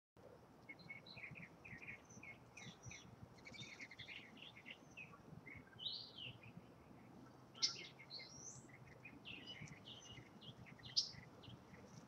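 Wild backyard birds chirping and calling around seed feeders: many short, overlapping chirps, with two louder, sharper calls at about seven and a half and eleven seconds in.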